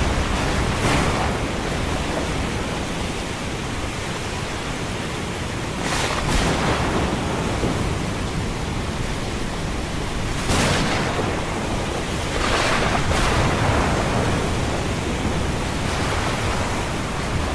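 Ocean surf mixed with a thunderstorm: a steady rushing of waves and rain that swells a few times as waves break.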